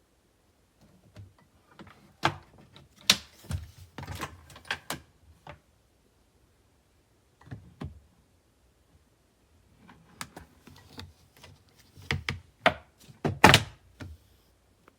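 Irregular knocks, clicks and thunks of hard objects being handled. They come in a cluster about two to five seconds in, a lone pair near eight seconds, and another cluster about ten to fourteen seconds in.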